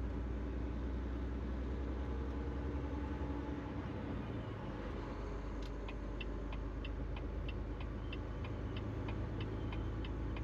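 Semi-truck cab on the move: a steady low engine and road rumble. About halfway through a rapid, regular ticking starts, about three clicks a second.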